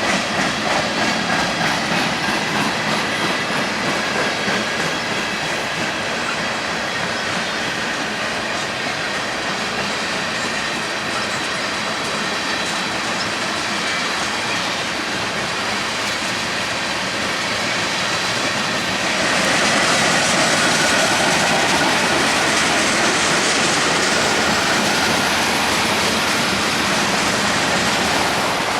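Freight train cars rolling past, their wheels clicking rhythmically over the rail joints at first and then rolling more steadily. About two-thirds of the way through it gets louder, and a high wheel squeal rings out over the rolling.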